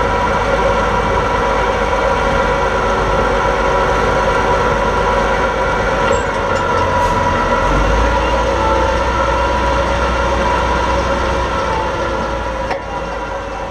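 Light super stock pulling tractor's engine running hard and steady under load, with a high whine over the engine note; it eases off in the last second or two.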